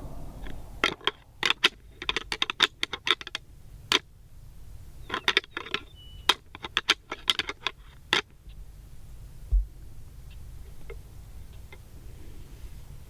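Deer antlers rattled together to call in a whitetail buck: rapid bursts of hard clicks and clacks in two spells over several seconds, stopping about eight seconds in.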